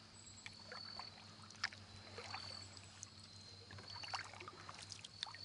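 Faint, irregular splashes and drips of a kayak paddle dipping into calm river water.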